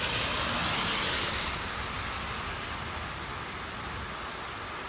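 Heavy thunderstorm rain and wind making a steady hiss, a little louder in the first second and a half.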